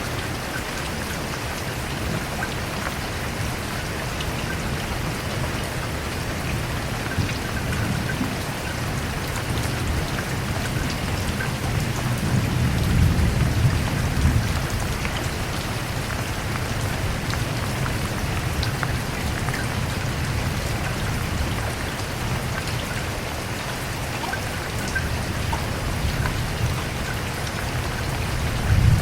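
Steady rain falling, with a low rumble of thunder that swells about halfway through and again briefly at the end.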